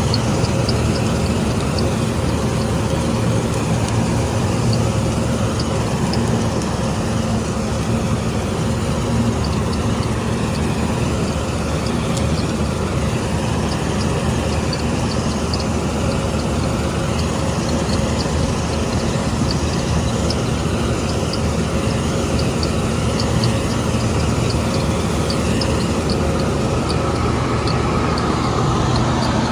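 Combine harvester running steadily while harvesting, its engine and machinery making a constant drone with a faint, regular ticking.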